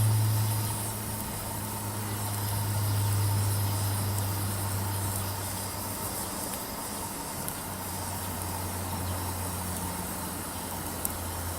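A low, steady motor hum, like an engine idling, that drops slightly in pitch about seven seconds in, with a few faint sharp crackles from the wood fire near the end.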